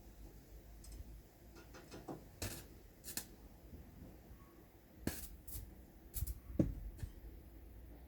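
A series of short, light clicks and knocks at irregular intervals, about nine in all, the loudest falling between about five and seven seconds in.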